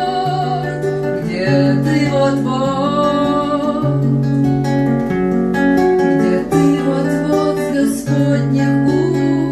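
Acoustic guitar playing with a woman singing over it: a bard song with guitar accompaniment.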